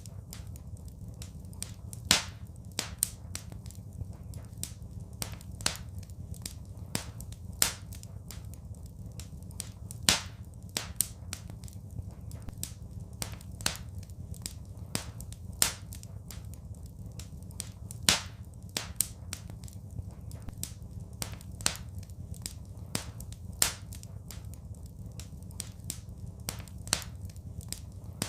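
Wood fire crackling in a fireplace: irregular sharp pops and snaps, a few louder ones every couple of seconds, over a steady low rumble of the burning fire.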